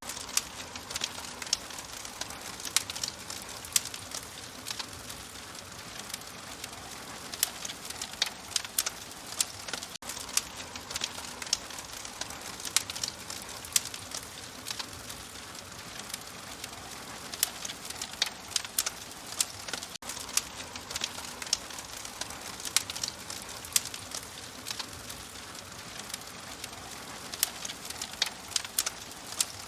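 Wood fire crackling in a fireplace: frequent, irregular sharp pops and snaps over a steady soft hiss.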